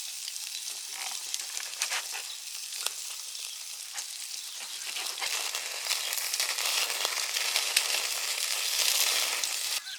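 Food frying in a pan: a steady sizzle full of small crackles, growing louder about six seconds in.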